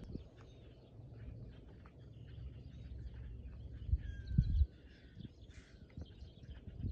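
Birds chirping and calling, many short calls, over a steady low rumble. A few low thuds about four seconds in are the loudest sound.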